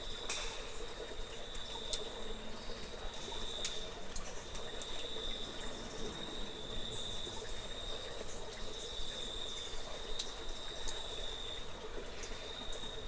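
Crickets or similar insects trilling steadily at a high pitch, with brief breaks, and scattered sharp clicks over a faint background hum.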